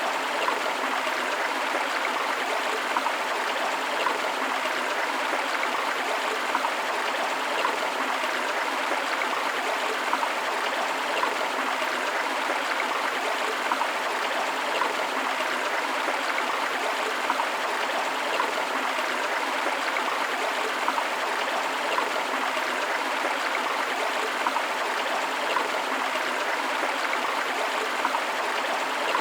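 Shallow forest river running over rocks: a steady rush of flowing water with frequent small splashes and gurgles.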